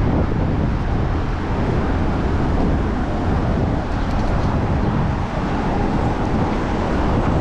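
Steady wind noise on the microphone mixed with the road noise of passing car traffic, heard while riding a bicycle through city streets.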